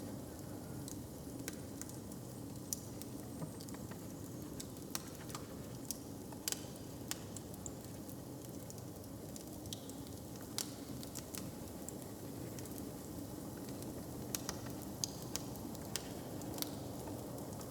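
Open fire crackling, with irregular sharp pops and snaps scattered through it over a low, steady background rumble.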